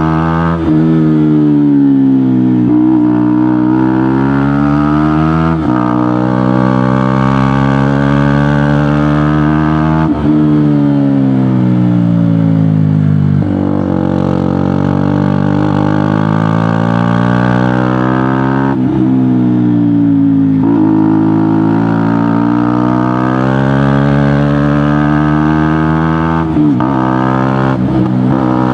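KTM Duke motorcycle with an aftermarket GPR exhaust riding under way, its engine pitch rising and falling with throttle. The sound breaks sharply several times as gears are changed.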